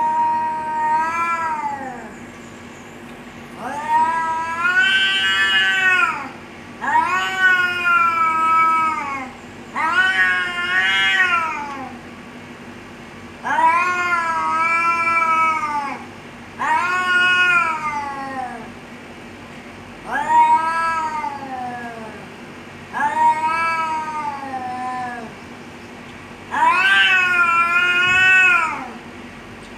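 Domestic cats yowling at each other in a threat standoff. About nine long, drawn-out yowls of roughly two seconds each rise and then slide down in pitch, with short pauses between them.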